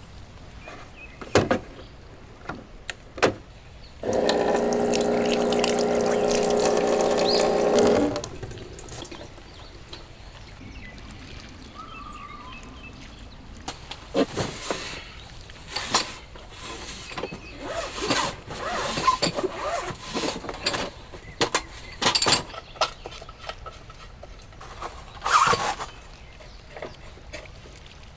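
A small electric motor runs with a steady hum for about four seconds. Before and after it come scattered clicks and knocks of things being handled.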